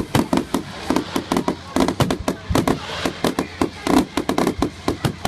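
Fireworks going off in a rapid, dense barrage of sharp bangs and crackles, several a second without a break.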